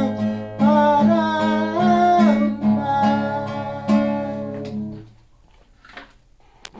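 Acoustic guitar strumming, with a wordless sung or hummed line held and bending over the chords. The closing chord dies away about five seconds in, leaving only faint small clicks.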